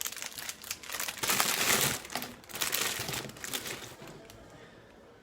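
Packaging crinkling and rustling as it is handled and unwrapped, in uneven bursts for about four seconds before dying away.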